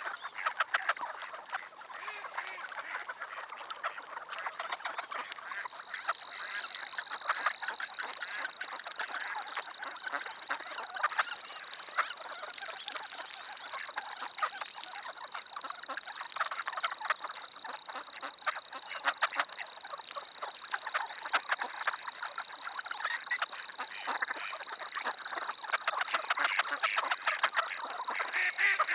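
Dense, continuous chatter of a large flock of ducks calling all at once, many short calls overlapping, with a thin steady high tone coming in about six seconds in.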